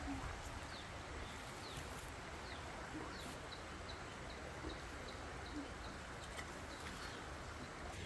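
A bird chirping: short falling chirps, with a regular run of them at about three a second in the middle, over a steady background hiss.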